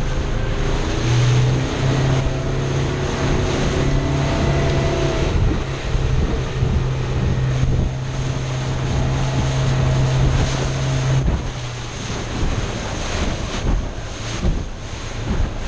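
Speedboat engine running steadily, with wind buffeting the microphone and the wash of water. The engine's hum drops away about eleven seconds in.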